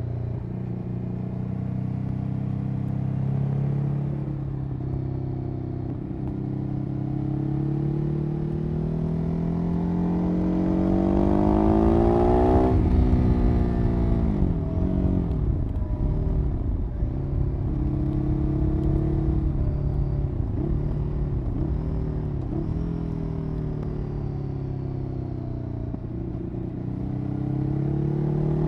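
Ducati Hyperstrada 821 / Hypermotard L-twin engine through its exhaust. It runs steadily, then the revs climb for several seconds to a peak near the middle and drop sharply, followed by a run of short dips and recoveries in revs and a final rise near the end.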